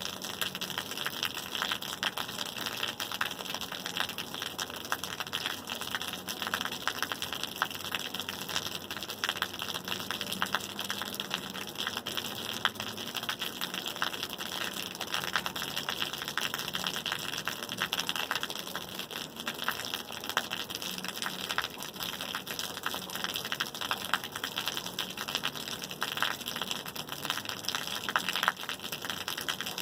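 Steady rain falling, a dense crackle of many small drops striking a surface, even throughout with no lulls.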